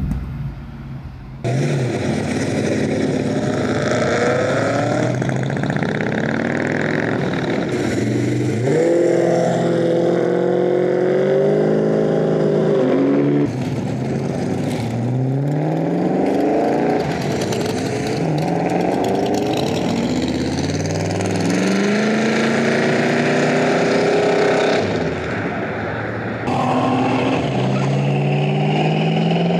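Performance car engines accelerating hard as cars pull away one after another. Each engine's pitch climbs steeply, drops at a gear change and climbs again, several times over, with abrupt switches between cars.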